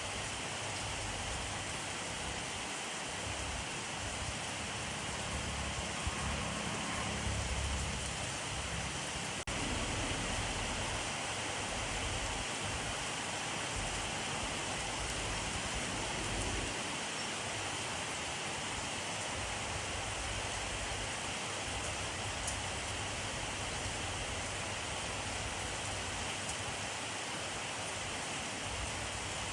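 Steady, dense rainfall hissing without a break, with a low rumble swelling in the background about six to ten seconds in.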